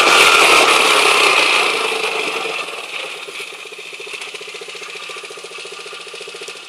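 Small 50cc kids' quad bike engine running. It is loud at first, grows quieter over the first few seconds, then runs on at a steady lower level with an even pulsing beat.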